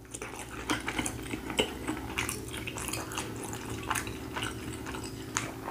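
Close-miked wet chewing of a mouthful of cheesy macaroni and baked beans: a busy run of small sticky clicks and lip smacks.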